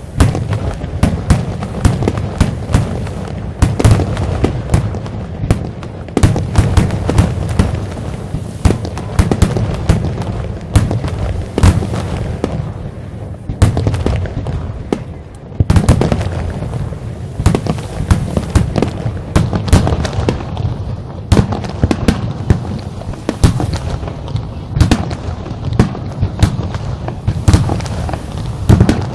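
Fireworks display bursting overhead in quick succession: a dense run of loud bangs, several a second, with hardly a pause.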